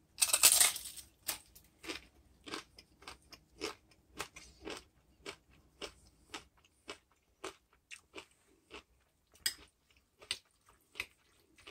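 Someone bites into a tortilla chip with one loud crunch, then chews it with a steady run of smaller crunches about twice a second.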